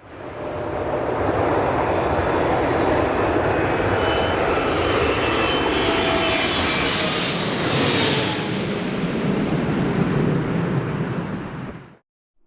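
Airbus A340-600 with four Rolls-Royce Trent 500 engines passing close by, a loud steady jet noise with whining tones that fall in pitch, loudest about eight seconds in. It cuts off suddenly near the end.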